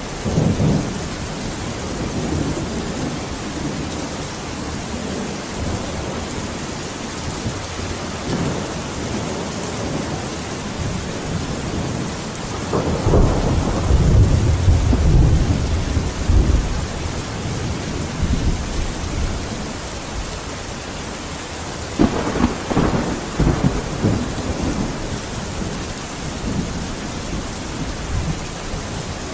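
Steady rain with rolling thunder. A rumble comes right at the start, the longest and loudest rolls through the middle, another breaks in suddenly about three quarters of the way through, and a further one begins at the very end.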